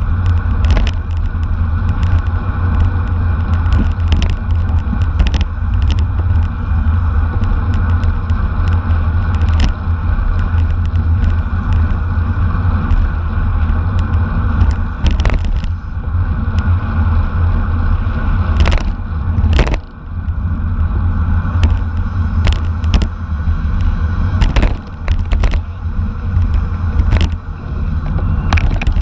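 Wind rushing and buffeting over the microphone of a camera riding along on a racing bicycle, a steady heavy rumble, with frequent short clicks and rattles from the bike and road.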